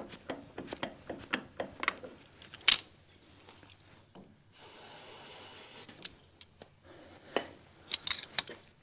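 Hand tools and small metal parts clicking, clinking and scraping as diesel injector nozzles are worked loose, with one sharp click a little under three seconds in. A steady hiss lasts about a second and a half around the middle.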